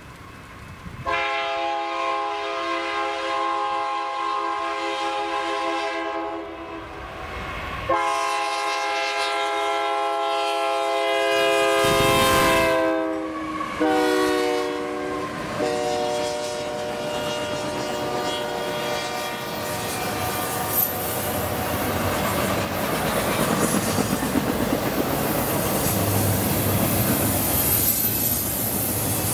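BNSF diesel locomotive horn sounding two long blasts and then two shorter ones, its chord dropping in pitch as the lead locomotives pass. Then the locomotives and loaded double-stack container cars run by with a steady rumble and wheel clatter, with thin wheel squeal from the curve.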